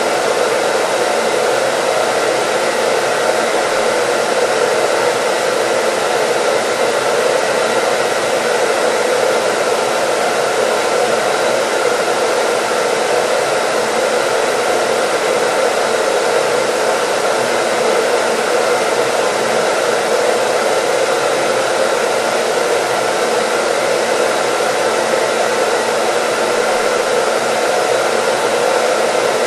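Hair dryer running steadily: an unchanging airy rush with a faint steady motor whine, used as white noise.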